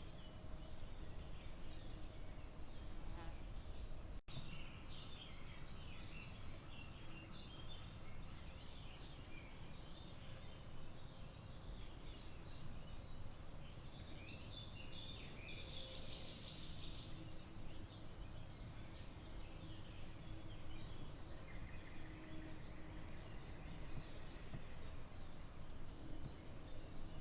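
Many birds singing together in a forest morning chorus, overlapping short chirps and trills that are busiest about halfway through, over a steady low background rumble. The sound cuts out for an instant about four seconds in.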